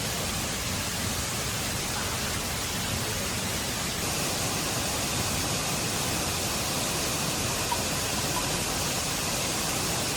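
Steady, even rushing hiss, with a couple of faint short sounds in the second half.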